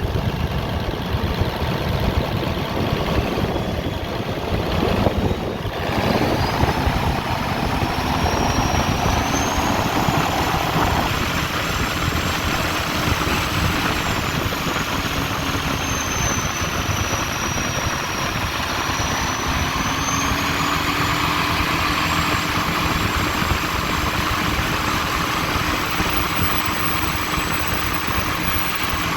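Ford 7.3L Power Stroke turbo-diesel V8 running loud at raised revs. A high turbo whistle rises about six seconds in, then holds high with a slight dip and recovery.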